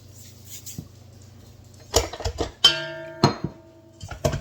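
Metal mixing bowl knocked several times on the counter as dough is turned out. One knock leaves the bowl ringing for nearly a second, and a faint rubbing comes before the knocks.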